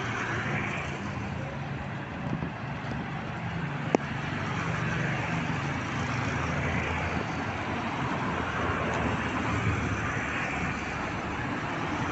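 Steady rain with traffic on a wet road: a low engine hum and the hiss of tyres swelling as vehicles pass every few seconds. One sharp click about four seconds in.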